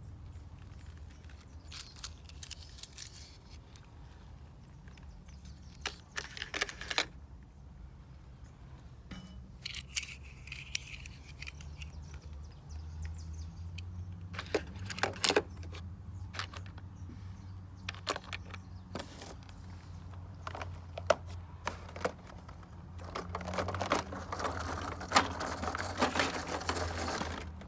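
Small die-cast and plastic toy vehicles being handled: scattered clicks and knocks as they are set down and moved, and a busier stretch of clattering and rattling near the end, over a low steady hum.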